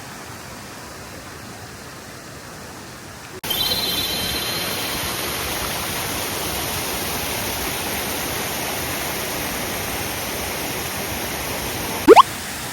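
Steady rushing of water, which steps up suddenly and gets louder about three and a half seconds in. Near the end comes one short, loud sweep rising in pitch.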